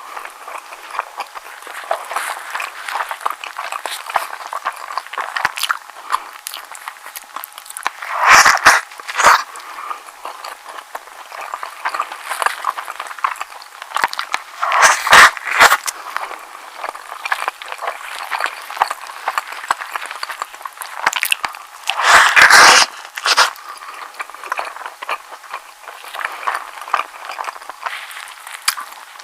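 Close-miked chewing of a soft egg sandwich: a steady run of moist mouth and chewing noises, with several louder bursts about 8, 15 and 22 seconds in.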